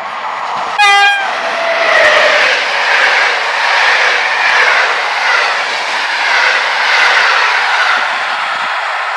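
Electric locomotive sounds a short horn blast about a second in, the Rp1 'attention' warning signal. The passenger coaches of an Intercity express then roll close past with a steady, dense rush of wheel and rail noise and some clattering.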